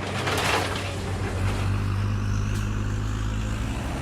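Heavy machine engine running steadily with a low hum, with a short rushing noise about half a second in.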